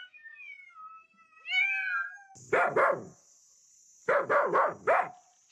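A cat meowing in long, wavering meows. Then a dog barks twice, and a little later four times in quick succession.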